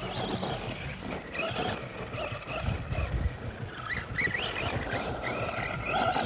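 Radio-controlled off-road trucks' electric motors revving in short rising and falling whines, several times over, with a steady low rumble of wind on the microphone underneath.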